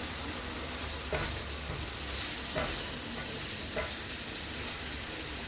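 Onion, tomato and chilli masala sizzling in oil in a wide tawa while being stirred and fried down (bhuna). A wooden spatula scrapes across the pan a few times.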